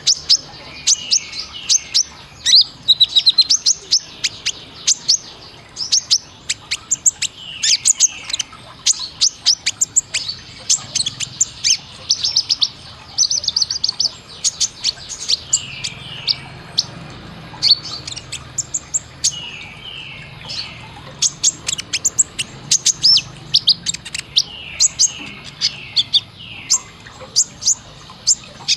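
Kolibri ninja (konin) sunbird singing: rapid, high, sharp chirps and short falling notes, delivered in quick bursts with brief pauses between them.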